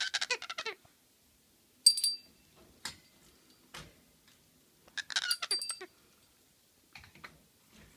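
Pet parrot calling: a quick run of high chattery calls at the start, one sharp high call about two seconds in, and another chattery run about five seconds in, with a softer call near the end.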